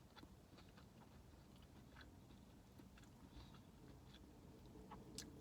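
Faint chewing of food, with scattered small mouth clicks and one sharper click near the end.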